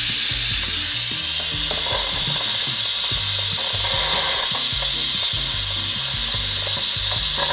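Instant Pot electric pressure cooker venting steam through its pressure release valve after cooking: a loud, steady hiss of the quick pressure release.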